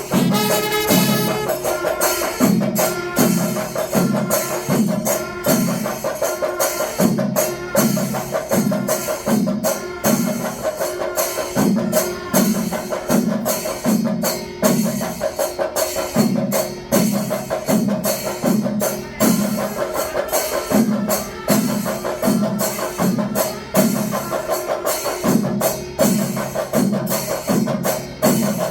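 Percussion-led music with drums and clashing small cymbals, a low drum stroke repeating at a steady beat under a sustained tone.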